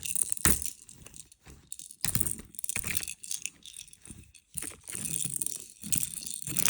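A dog playing with toys: irregular rattling and jingling with scattered knocks and scuffs.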